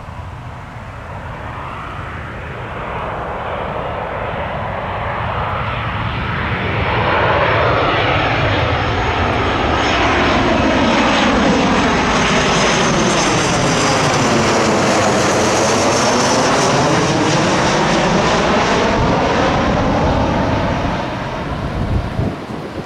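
Boeing 737-700 jet airliner passing low overhead on approach, its engine noise growing to its loudest about seven seconds in, holding, then falling away near the end, with a low rumble of wind on the microphone.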